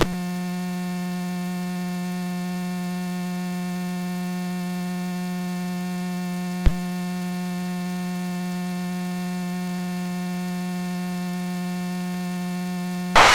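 Steady electrical hum with a stack of even overtones, heard over the aircraft's intercom feed, with one sharp click about halfway through and a brief burst of noise at the very end.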